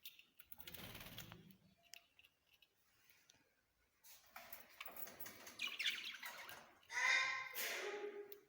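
Small pet birds chirping, with bursts of wing flapping; a clearer pitched call near the end.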